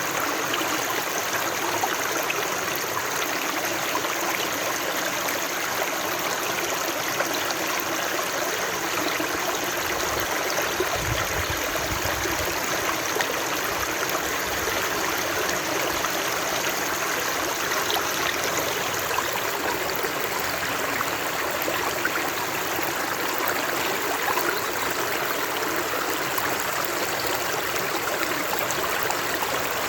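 Running water flowing steadily, an even rushing and trickling with no change in strength.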